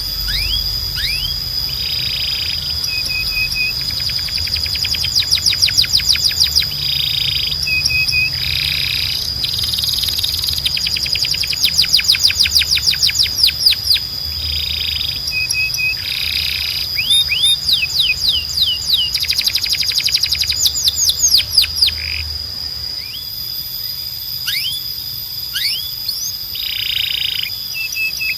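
Canary singing: fast rolls of rapidly repeated rising notes, each lasting a second or two, with short buzzy phrases between them. A steady high tone and a low hum run underneath.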